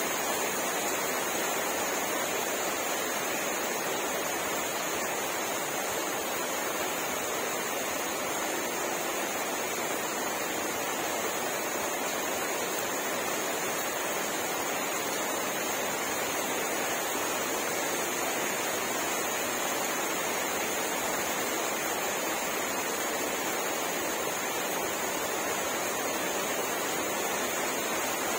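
Rain falling steadily, an even hiss that never lets up or changes.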